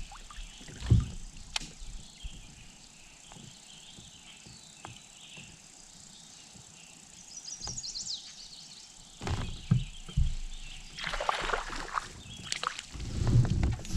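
Knocks and bumps against a kayak's hull as the angler moves around in it, with some water sloshing. Around the middle there is a short run of high chirps, and the knocks come thickest in the second half.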